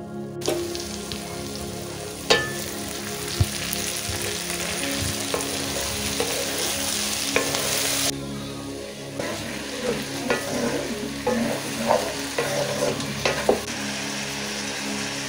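Diced vegetables sizzling in hot oil in an iron wok while being stirred, with sharp clicks of the stirring utensil against the pan. The sizzle eases about eight seconds in, after which the clicks come more often.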